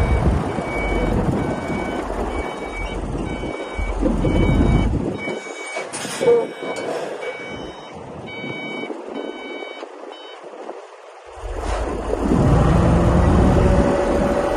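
Backup alarm of a heavy construction machine beeping about twice a second over the machine's engine rumble. There is a short knock about six seconds in, and the engine grows louder near the end.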